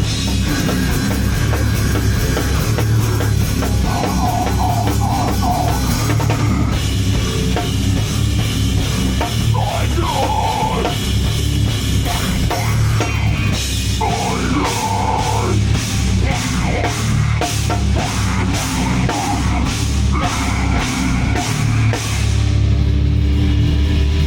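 Live heavy metal band playing loud, with drum kit and cymbals driving the song. Near the end the cymbals drop away and a low sustained sound rings on.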